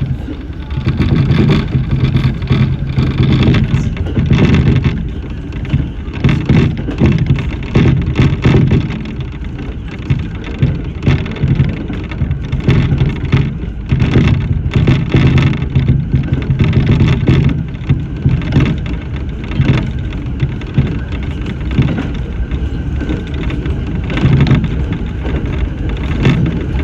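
Electric train running along the line, heard from inside the front car: a steady low hum and rumble from the running gear and wheels on the rails, with many irregular knocks from the track.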